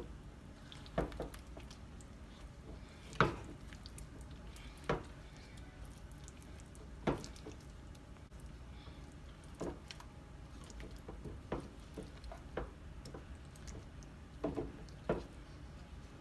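Chicken pieces being stirred into a thick sour cream sauce in a pan: separate soft squelches and scrapes of the utensil against the pan, about one every one to two seconds.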